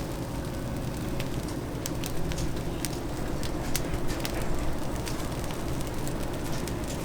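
Oak wood fire crackling with sharp, irregular pops over a steady low hum.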